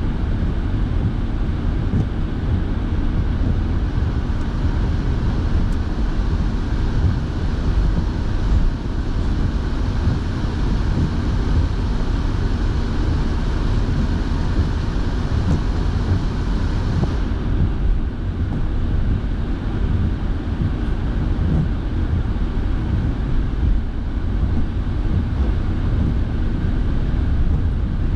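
Steady road and engine rumble inside a moving car on wet roads, with the heater fan blowing. About two-thirds of the way through, the high hiss drops away and the low rumble carries on.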